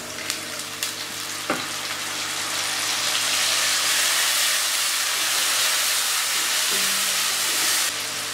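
Water poured into a pan of diced potatoes frying in hot oil: the oil sizzles up, the hiss growing over the first few seconds as a spatula stirs and clicks against the pan. The sizzle falls off suddenly near the end.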